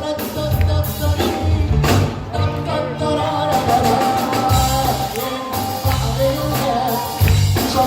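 Egyptian pop song played by a band: a wavering melody over a pulsing bass line and percussion, in an instrumental passage between sung lines.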